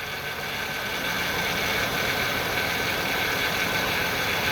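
Ford Windstar's 3.8-litre V6 idling steadily, with its number 6 fuel injector unplugged and the engine running on the remaining cylinders. The engine has a persistent rough idle and shake whose cause has not been found.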